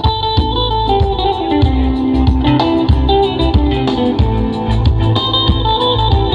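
Guitar-led music played loud through a large sound system for a sound check, with heavy pulsing bass and frequent drum hits.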